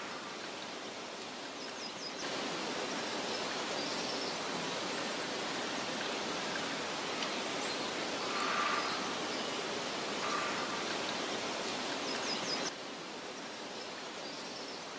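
Meadow ambience: a steady outdoor hiss of soft wind with a few faint, scattered bird chirps. The hiss steps up sharply about two seconds in and drops back just as sharply near the end.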